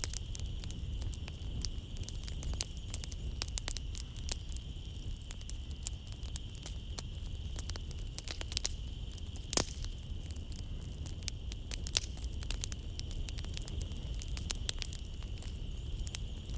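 Wood fire crackling in a fireplace: irregular snaps and pops over a low rumble of the flames, with a sharper pop about ten seconds in. A steady high-pitched chirring of night insects runs underneath.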